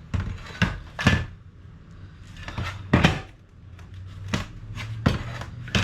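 Irregular knocks and clunks of metal parts being handled and set in place while fitting an engine motor mount, about seven in all, over a steady low hum.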